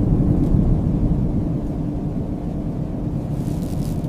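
Steady low wind rumble of an approaching snowstorm, with a faint high hiss near the end.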